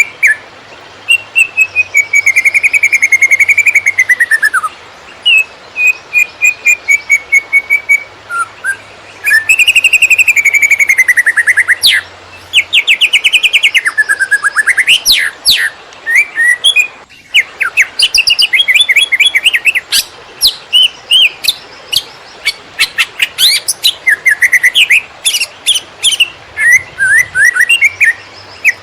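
Greater green leafbird (cucak ijo) singing a fast, agitated song: long rapid trills and runs of quick repeated whistled notes, several phrases falling in pitch, broken by short pauses.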